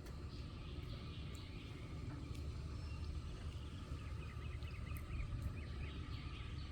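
Outdoor ambience: a steady low rumble, with birds chirping faintly in quick runs in the second half.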